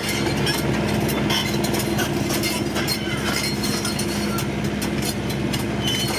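Excavator engine running steadily, with many sharp clicks and short high-pitched squeaks from the machine.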